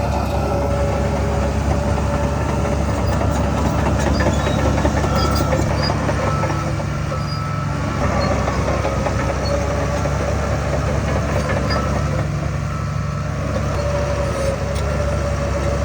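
Heavy diesel earthmoving machinery running steadily, with metallic clatter and short high squeaks throughout.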